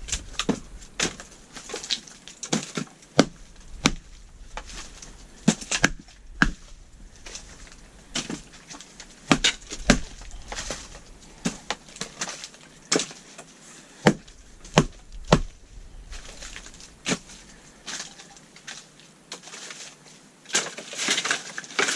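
Wooden boards knocking and clattering as they are handled and fitted into a floor, a string of irregular sharp knocks with a denser cluster near the end.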